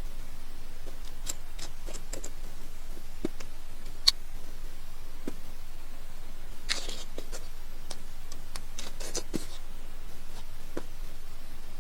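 Close-miked eating of crispy deep-fried battered eggplant sandwiches: scattered crunches and mouth clicks, with a longer crackly bite about seven seconds in and a quick cluster of crunches around nine seconds.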